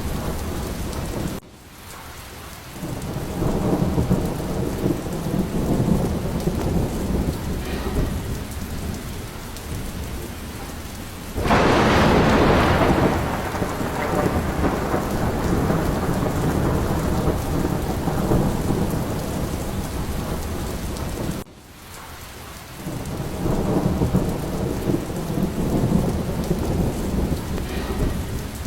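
Steady heavy rain with rolling thunder. About eleven seconds in, a loud thunderclap breaks and rumbles away over a couple of seconds. Twice the sound drops away suddenly, about a second in and again about twenty-one seconds in, then swells back with low rumbling.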